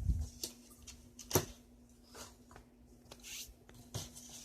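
Handling noise as a braided stainless steel turbocharger oil line is picked up and brought out: scattered light clicks and short rustles, one sharper click about a second and a half in, over a faint steady hum.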